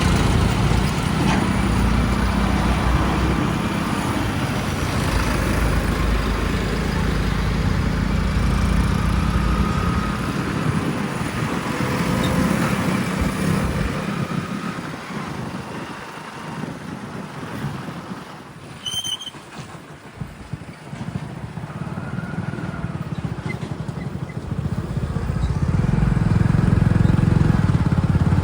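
Heavy earthmoving or haulage vehicle engine running, such as a backhoe loader, tipper truck or tractor working mud. The engine fades away about midway and comes back louder near the end.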